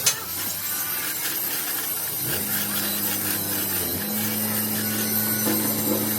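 Metal-fabrication workshop machinery running: a steady low electrical hum over a continuous hiss, with a sharp click right at the start. The hum comes in about two seconds in and steps up slightly in pitch about four seconds in.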